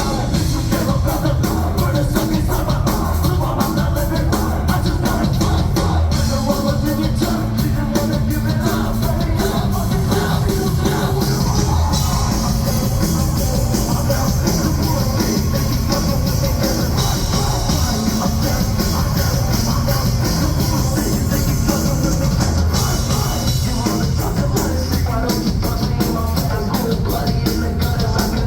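Loud live music over a concert PA: a heavy, bass-laden beat with rapped or shouted vocals and crowd noise, heard through a phone microphone.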